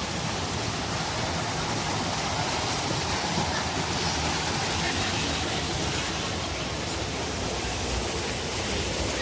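Steady, even rush of water from a spring-fed waterfall and its cascades.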